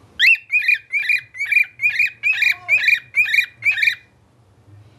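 Pet bird whistling a tune: a quick run of about ten short, evenly spaced whistled notes that stops about four seconds in.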